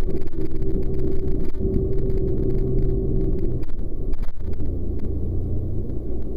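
Jet boat engine running with a steady low rumble; its note shifts lower a little past halfway through.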